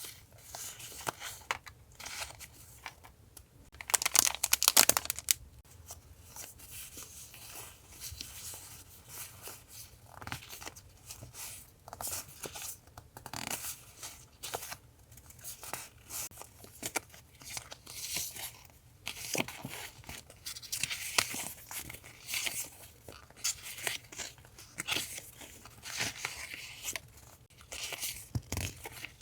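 Paper being handled for journal collage: repeated rustling, crinkling and tearing, with a louder, dense burst of paper noise about four seconds in and lighter scattered rustles and taps after.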